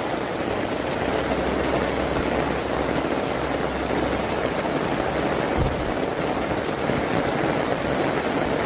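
Heavy rain falling and pattering steadily on surfaces, with a brief low thump about five and a half seconds in.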